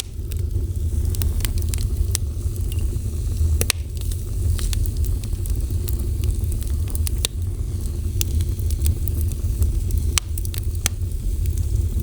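Fire burning, with a steady low rumble under many irregular sharp crackles and pops.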